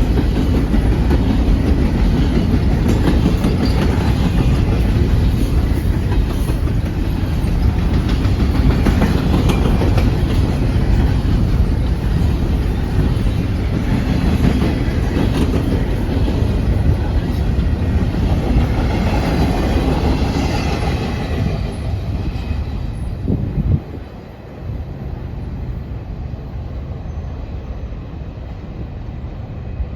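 Intermodal container freight train rolling past, its wheels clacking steadily over the rails with faint wheel squeal. The rumble eases off, then drops sharply after a brief knock about 24 seconds in, leaving a quieter rolling sound.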